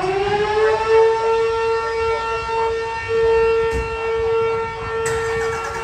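Fire siren winding up and then holding a steady, single-pitched wail, sounding for a fire call dispatch.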